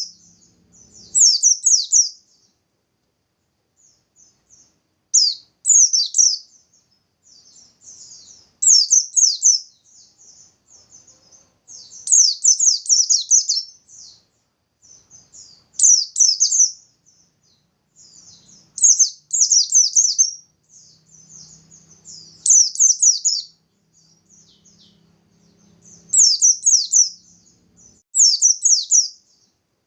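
Pleci bustomi, a white-eye, singing in short, rapid, high-pitched bursts about every three seconds: the fast 'nembak' song of a bird in full voice.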